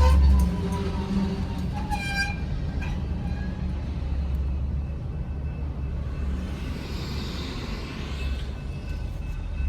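Freight train rolling past: the low, steady rumble of the cars on the rails, with a short high metallic ring about two seconds in.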